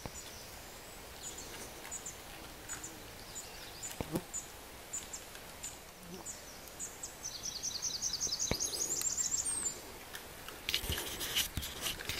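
Songbirds calling: a high chirp repeated about twice a second, then a fast high trill lasting a couple of seconds. Near the end comes a burst of clicking and rustling.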